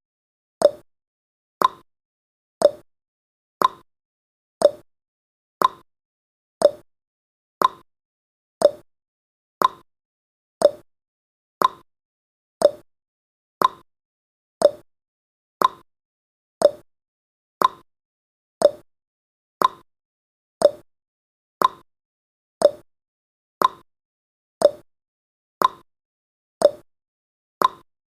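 Clock-style tick-tock sound effect of a countdown timer: one short, sharp click each second, alternating between a lower and a higher pitch, with silence between the clicks.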